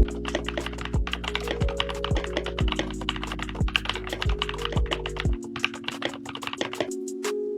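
Rapid typing on a restored OG80 mechanical keyboard fitted with Gold Pink V2 switches: a quick, dense patter of key clicks that stops about five seconds in. Background music with a steady beat runs underneath.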